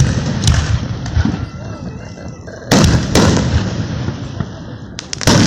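Fireworks going off: a bang about half a second in, two loud bangs close together around three seconds in and another near the end, each trailing off in rumble.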